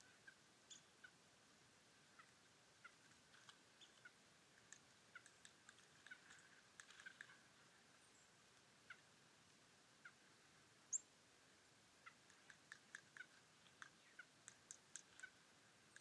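Small birds giving short, scattered chirps and chip calls against a quiet background, with one sharper high call about eleven seconds in and the chirps coming faster near the end.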